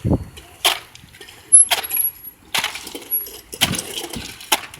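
A run of irregular sharp knocks and scrapes, about nine in all, with the loudest about one and a half seconds in.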